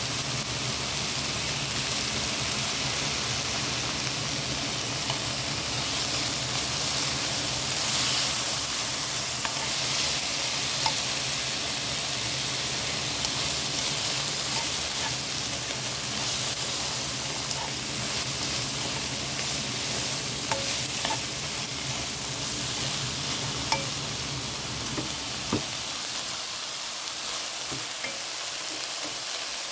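Shiitake mushrooms, onion and green onion sizzling in a hot frying pan as a wooden spoon stirs them. Scattered light clicks of the spoon against the pan sound over the steady frying hiss.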